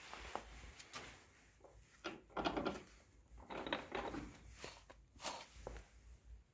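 Irregular scraping and knocking, a handful of separate bursts of handling noise from objects being moved or set down.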